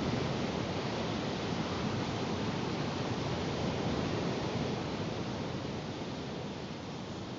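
Steady rushing of strong wind and sea surf, easing off gradually near the end.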